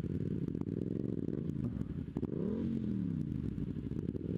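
Motorcycle engine running, with a brief rev that rises and falls about two and a half seconds in.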